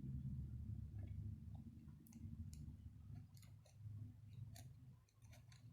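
Faint, scattered small clicks of old Delco Remy distributor parts being handled and fitted back together, coming more often in the second half, over a low steady hum.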